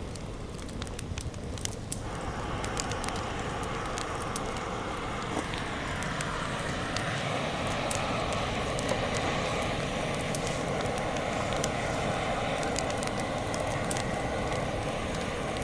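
Campfire crackling with scattered sharp pops. About two seconds in, a steady rushing hiss starts suddenly and keeps on under the crackle.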